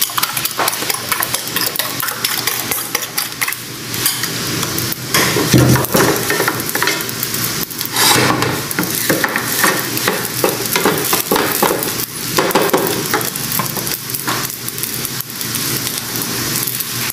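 Fried rice sizzling in a hot nonstick pan while a wooden spatula stirs and scrapes it, with repeated short scrapes over a steady frying hiss.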